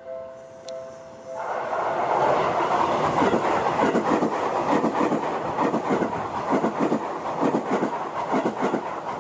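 A level-crossing warning bell rings in repeated two-tone dings. About a second and a half in, an electric train on the Seibu Ikebukuro Line passes close by, and its wheels set up a fast, loud run of clacks over the rail joints that covers the bell.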